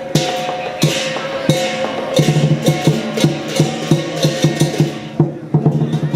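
Lion dance percussion band playing: a drum beaten in a driving rhythm with cymbals and gong crashing over it, with a short dip in the playing near the end.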